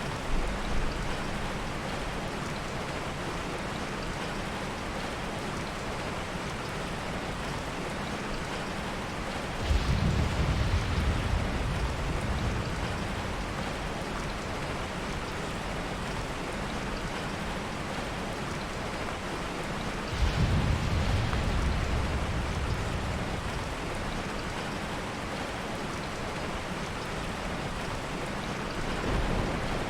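Heavy rain falling steadily, with soft thunder rolling in low twice, about ten and twenty seconds in, each fading over a few seconds, and another roll starting near the end.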